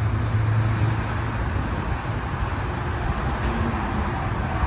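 Steady noise of road traffic, with a low engine hum that fades out after about a second and a half.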